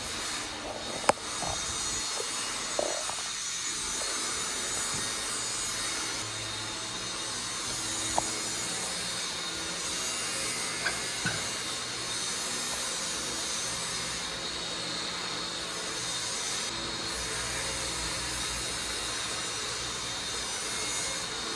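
Steady hiss with a few sharp clicks, the loudest about a second in.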